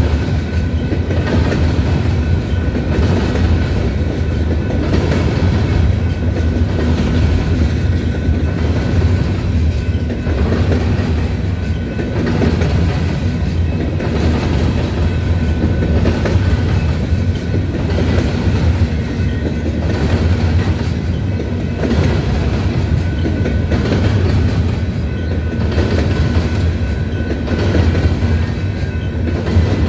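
Grain train's covered hopper cars rolling past: a steady rumble of wheels on rail with a clickety-clack rhythm.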